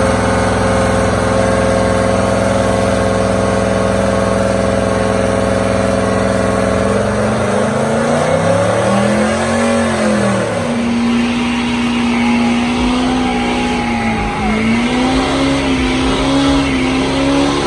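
Truck engine held at high, steady revs during a burnout. Partway through, the revs swing up and back down, then hold steady again while a harsh hiss joins in.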